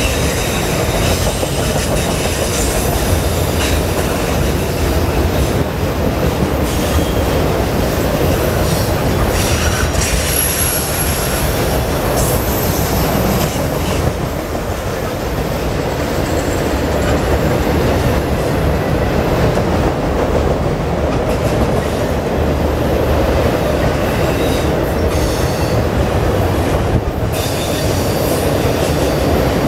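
Freight train of autorack cars rolling past on a curve: a steady rumble of steel wheels on the rails, with brief high wheel squeals that come and go, clearest about ten to thirteen seconds in.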